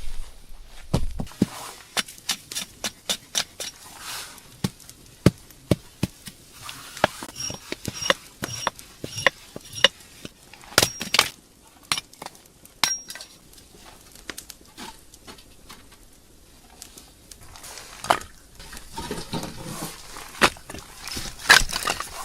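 Firewood being gathered and handled: irregular sharp knocks and snaps of wood on wood, with a quieter stretch about two-thirds of the way through.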